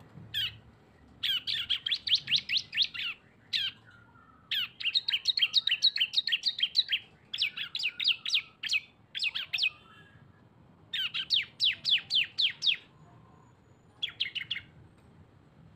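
A prinia (ciblek) singing its fast 'ngebren' song: rapid runs of sharp, high, downward-sweeping chirps, about eight to ten a second, in repeated bursts of one to two seconds with brief pauses between them.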